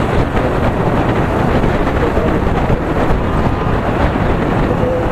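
Steady rush of riding wind on the microphone of a moving Yamaha R15 V3 motorcycle, with its single-cylinder engine running underneath.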